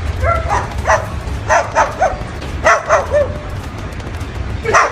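A dog barking in short, high yips, about seven times in irregular bunches, over a steady low hum.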